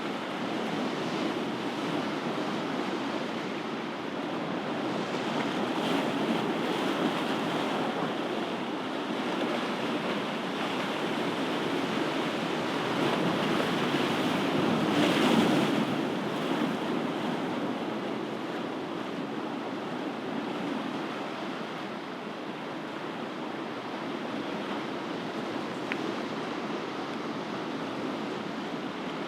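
Ocean waves breaking on a shore in a continuous steady wash of surf that swells to its loudest about halfway through, then eases off.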